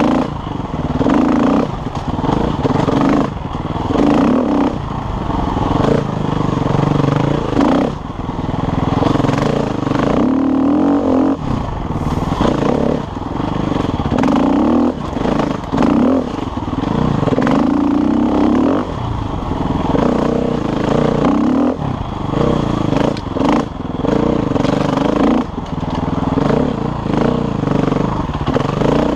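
KTM enduro motorcycle engine being ridden hard, its revs climbing and dropping every second or two as the rider works the throttle. Frequent knocks and clatter come from the bike over rough trail.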